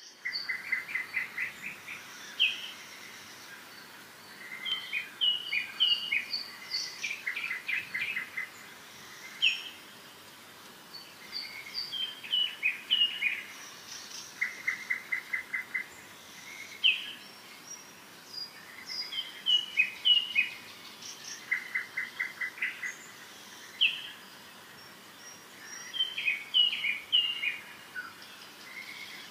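Songbirds chirping and trilling in bursts every few seconds, short high notes mixed with fast rattling trills, over a faint steady hiss.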